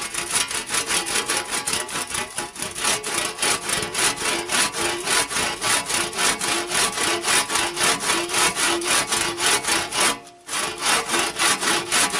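Homemade hand saw cutting through a dry log in rapid, even back-and-forth strokes, with a short break just after ten seconds before the sawing resumes.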